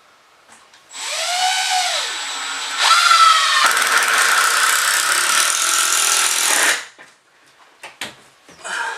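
Power drill driving a screw into a wooden wall stud. The motor winds up in pitch about a second in and spins up again near three seconds, then runs under load for about three more seconds before stopping abruptly.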